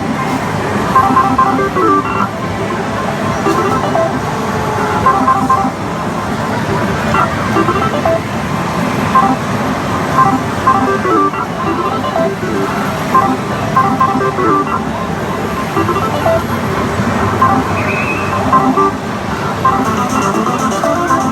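Dense, steady din of many overlapping electronic beeps, chimes and jingles, like a busy pachislot parlour full of slot machines, with music mixed in.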